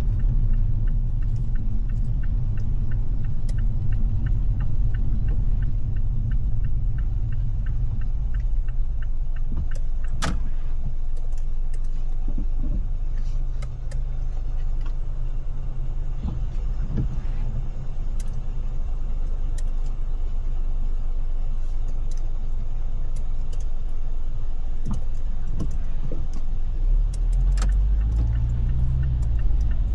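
Steady low rumble of a car driving, heard from inside the cabin, with scattered light ticks of rain on the car. There is a sharp click about ten seconds in and another near the end, where the low rumble swells briefly.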